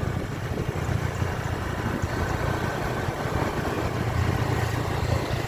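Moving vehicle's engine and road noise, a steady low drone under an even rush of noise.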